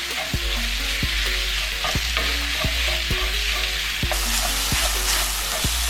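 Ground turkey sizzling as it fries in a pan, a steady hiss, with background music playing under it.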